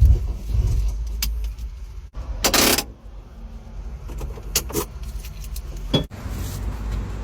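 Wind rumbling on the microphone, with handling knocks and clicks, a short rush of noise about two and a half seconds in and a sharp click about six seconds in.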